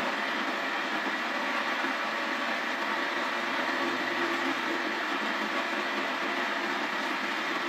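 Wood lathe running with a steady whirring noise from the turning workpiece, unbroken throughout.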